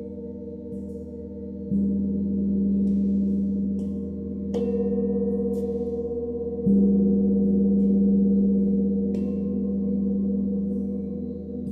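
Sound-bath instruments (singing bowls and gong) struck in turn, their long, steady ringing tones overlapping in low and middle pitches. Fresh strikes come just under 2 s in, near 5 s, near 7 s and about 9 s in, each adding a new tone over the ones still sounding.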